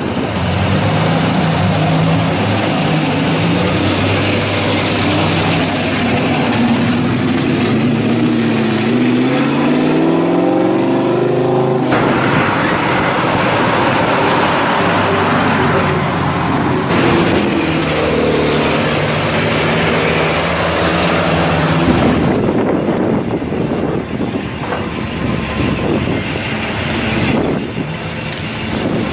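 Classic cars' engines and exhausts running as they drive slowly past one after another, including a black Buick Regal, a first-generation Chevrolet Camaro and a late-1960s Dodge Charger. One engine rises in pitch as it accelerates about eight to twelve seconds in. The sound changes abruptly a few times where the shots change.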